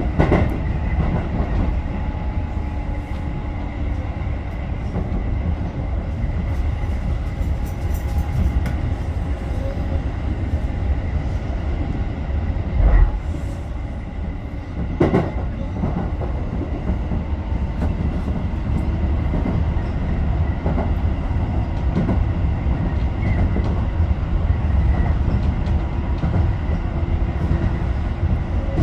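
Tobu 10030-series electric train running between stations: a steady low rumble of wheels on rail, with occasional knocks over rail joints, two of them louder near the middle.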